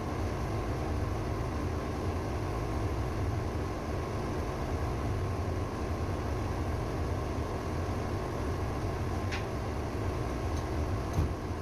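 Auxiliary engine running steadily: a constant low drone with hiss, with no change in speed.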